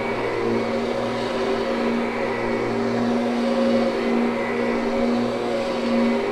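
Kirby upright vacuum cleaner running steadily on carpet, its motor tone wavering slightly as it is pushed back and forth.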